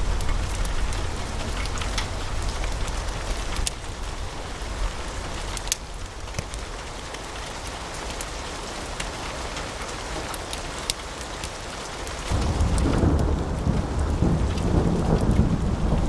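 Wood fire in a fireplace crackling, with frequent sharp pops and snaps over a steady low rush of flame. About twelve seconds in, the low rushing suddenly grows louder.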